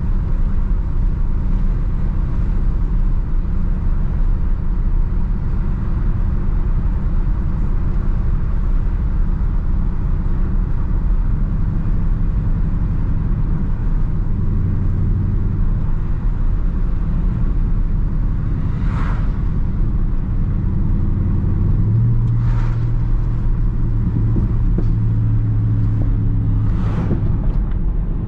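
A 2021 Dodge Charger Daytona 392's 6.4-litre HEMI V8 cruising at low load, with a steady low exhaust rumble and road noise. The engine note swells for a few seconds about halfway through and again for longer near the end.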